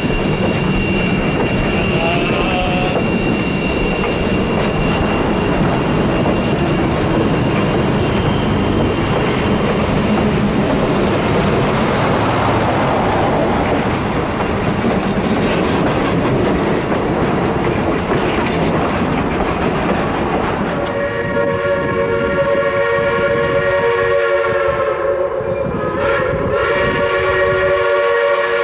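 Passenger coaches rolling past close by, their wheels rumbling and clacking on the rails. About 21 seconds in this gives way to a steam locomotive's chime whistle blowing one long chord of several notes, wavering briefly near the end.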